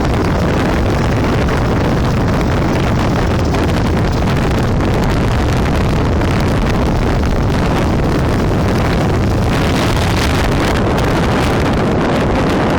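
Motorcycle engine running while riding, under a steady loud rush of wind on the microphone.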